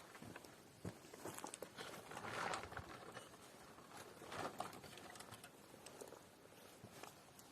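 Faint footsteps and rustling on the forest floor: scattered light steps with two louder scuffs.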